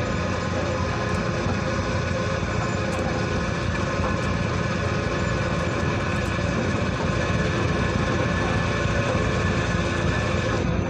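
Ferry's engines running with a steady, even drone and low rumble.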